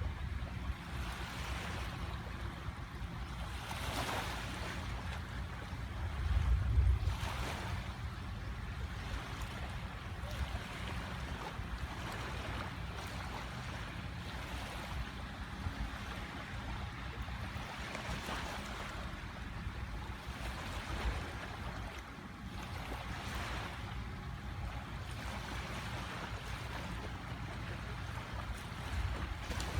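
Sea waves breaking and washing up on a beach, a hissing rush swelling every few seconds over a steady surf noise, with a low wind rumble on the microphone about seven seconds in.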